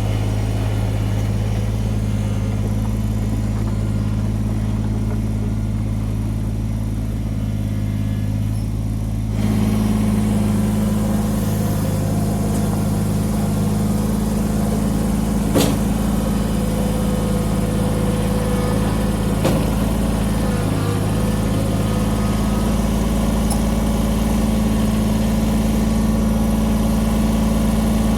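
Kubota BX23S sub-compact tractor's diesel engine running steadily, stepping up louder about a third of the way in. Two sharp knocks come about four seconds apart near the middle.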